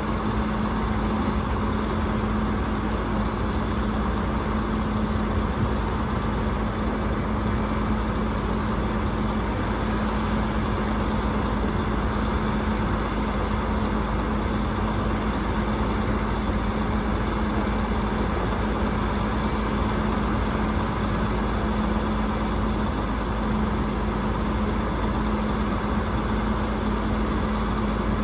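Rooftop HVAC unit running steadily: a constant machine hum over an even rush of fan and airflow noise.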